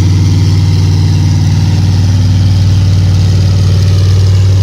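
Heavy tractor engine running steadily, with a low, even drone.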